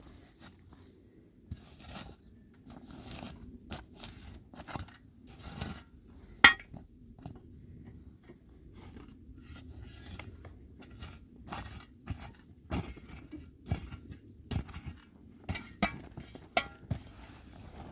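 Irregular clicks, knocks, clinks and scrapes of hard objects being handled, with one sharp, much louder click about six and a half seconds in.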